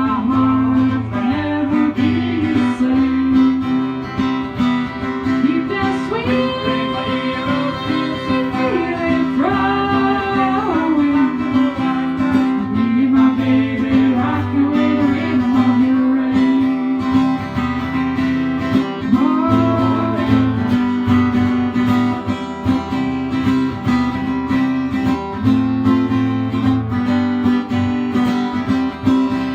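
A country song played on strummed acoustic guitar, with a voice singing phrases that come and go.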